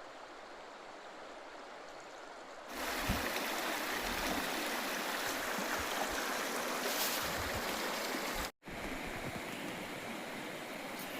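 River water flowing over rocks, a steady rushing that gets clearly louder about three seconds in and drops out for an instant near the end.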